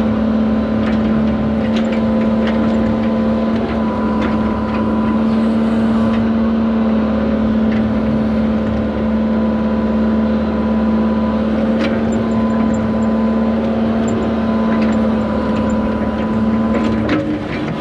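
Excavator's diesel engine running at a steady pitch while the machine works, with scattered clicks and clanks. The steady tone drops away near the end.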